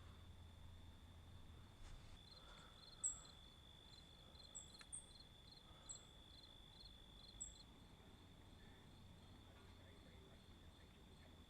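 Faint insects: a steady high trill, likely crickets, comes in about two seconds in and drops away a little past halfway, with a few short, sharp high chirps over it.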